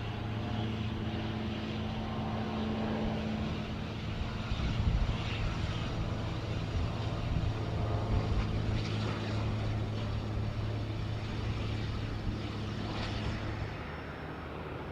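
Aircraft engine noise: a steady drone with a low hum under a rushing noise, the hum stopping about a second before the end.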